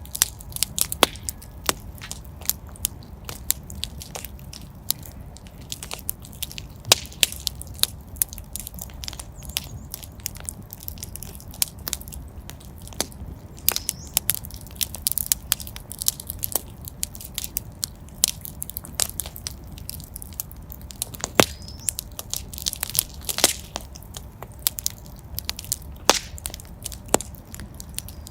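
Wood fire in a fireplace crackling: irregular sharp pops and snaps, a few louder than the rest, over a steady low rumble of the flames.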